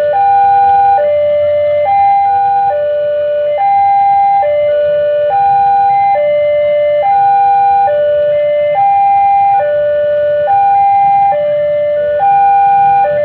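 Electronic railway warning alarm sounding continuously, alternating a higher and a lower tone about once every two seconds, over a low background rumble.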